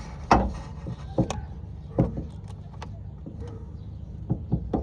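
A few separate sharp knocks and clicks, the loudest about a third of a second in, over a low steady hum.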